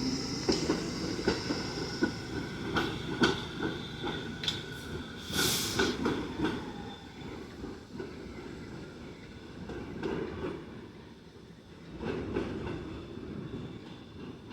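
New York City subway train running over the rails, its wheels clacking repeatedly over rail joints, with a short hiss of air about five seconds in. The rumble then dies down.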